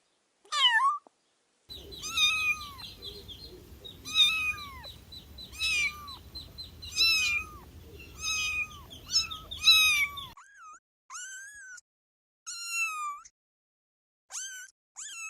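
Kittens meowing over and over: high-pitched meows that rise and fall in pitch, about one every second or so. A faint low background rumble sits under the calls until about ten seconds in.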